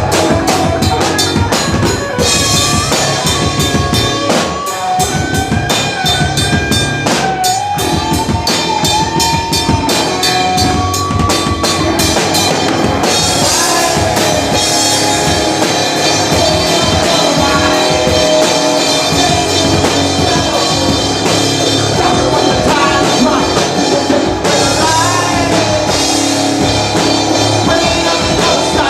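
Live rock band playing, with a full drum kit and an electric guitar lead over it; the drums are busiest in the first dozen seconds.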